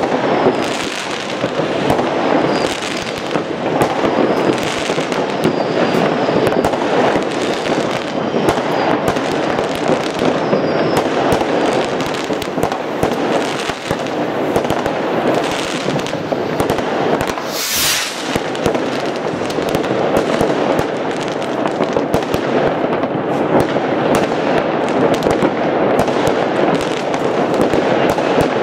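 Fireworks: many rockets and firecrackers going off at once, a continuous barrage of overlapping bangs, pops and crackling with no break. A brief high hiss cuts through about two-thirds of the way in.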